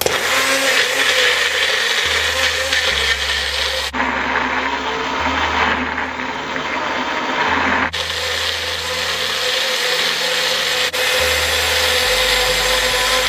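Electric blender running at full speed, puréeing green onion, garlic, chili peppers and pudina (mint) with water into a wet seasoning paste: a loud, steady motor whine with the whir of the blades through the liquid. It starts abruptly and stops near the end.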